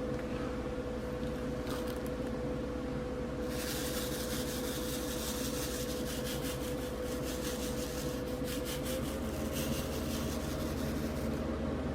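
Diamond painting pen picking up and pressing resin drills onto the canvas: a fine, rapid scratchy ticking that starts a few seconds in and stops shortly before the end, over a steady hum.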